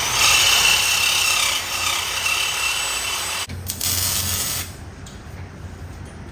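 A power tool running with a harsh rasping noise that cuts off about three and a half seconds in. A second short burst follows, and after it only a low hum remains.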